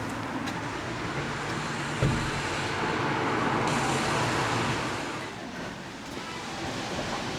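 A motor vehicle passing on the street, its tyre and engine noise swelling for a couple of seconds and then fading, over steady traffic hiss, with a single knock about two seconds in.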